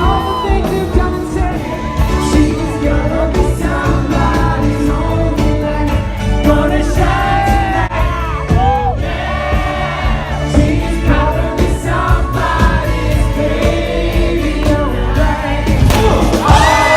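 Live yacht rock band playing a song with a lead singer's voice over bass and drums.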